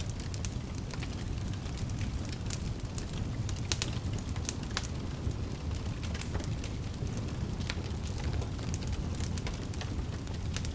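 Wood fire burning in a fireplace: a steady low rumble of flame with frequent irregular sharp crackles and pops.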